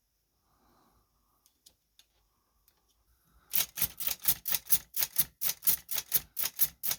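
Chicago typewriter's key action struck repeatedly in a rapid, even run of sharp clacks, about five or six a second, starting about three and a half seconds in after a few faint clicks of handling. A drop of oil has just gone into a sticky slide in the mechanism, and the action is now cycling more freely.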